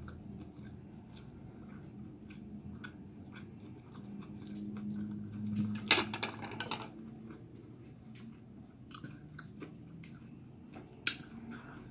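Chewing and small mouth clicks of a person eating vegan sushi rolls, with a brief louder noise about six seconds in and another sharp click near the end.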